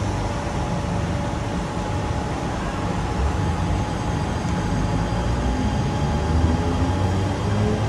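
Train rolling slowly through a station: a steady rumble from its wheels and running gear. A faint whine starts rising in pitch near the end as the train picks up speed.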